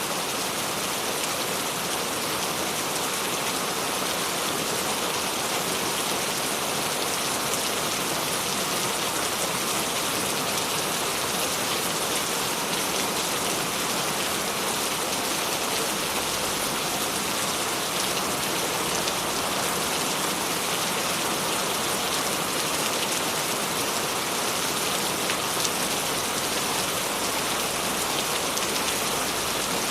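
Steady rain falling, an even hiss with a fine patter of drops and no thunder.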